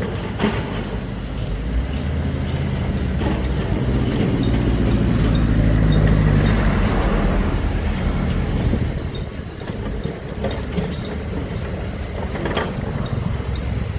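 Heavy earthmoving machine's diesel engine running under load, swelling louder about halfway through and then easing off, with a few sharp metallic knocks.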